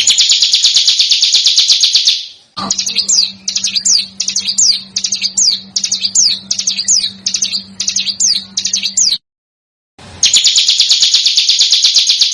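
Recorded small songbird calls: a rapid, dense, high trill, then after a short break a series of quick downward-sliding whistled notes about two a second over a steady low hum, then the rapid trill again near the end.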